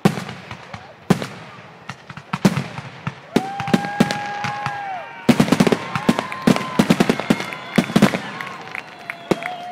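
Fireworks finale: a rapid barrage of aerial shell bursts, with sharp booms and dense crackling, thickest in the middle of the stretch. A few long steady high tones sound over the bursts.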